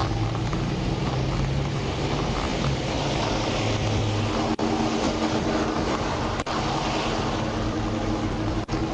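Steady vehicle engine noise with a constant low hum, briefly cut a few times.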